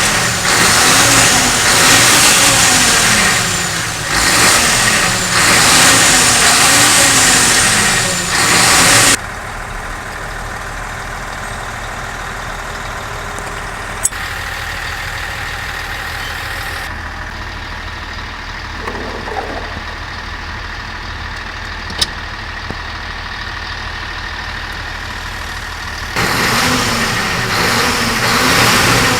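An engine running. For about the first nine seconds and again near the end it is loud and revved up and down in waves over a strong hiss. In between it drops suddenly to a steady idle, with two sharp clicks.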